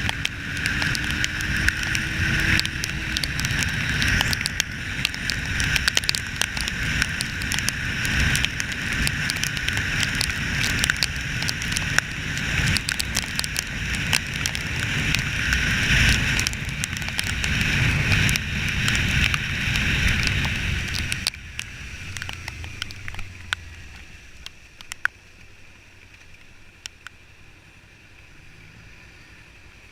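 Motorcycle riding noise: wind rushing over the microphone mixed with a running engine, and many small ticks through it. About 21 seconds in it drops sharply to a much quieter low hum that fades out.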